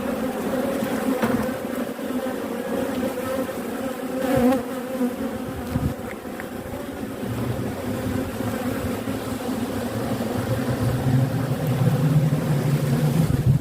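Honeybee colony buzzing steadily in an open hive while its frames are inspected, with a couple of light knocks. A lower, steady hum joins about halfway through.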